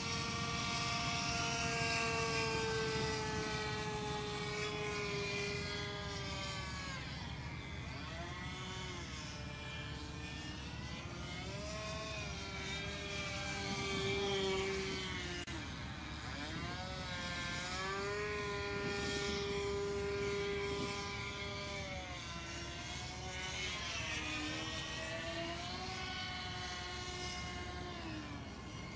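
OS 25FX two-stroke glow engine on a radio-control model plane in flight, its propeller tone swooping down and back up in pitch as the plane passes again and again. The engine can hardly be throttled back, and the owner says it sounds off, its bearings rusted from long disuse.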